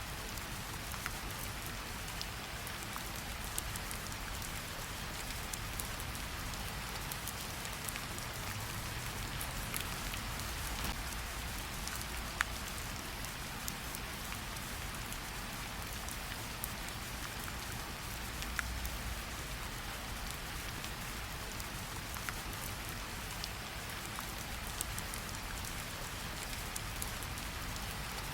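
Gentle rain falling on tree leaves: a steady hiss with scattered sharp drip ticks, a few louder drops standing out now and then.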